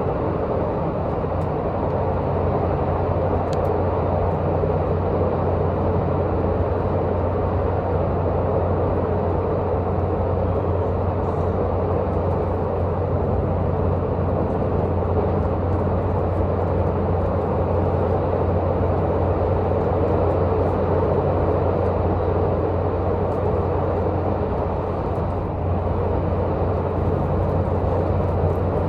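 Diesel multiple unit's underfloor diesel engine running steadily with the train under way, mixed with wheel and rail noise, heard from inside the passenger car.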